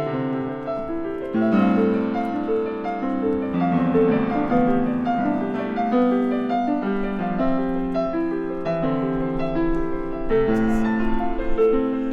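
Piano music: a melody of held notes that change about every half second to a second, with chords sounding beneath.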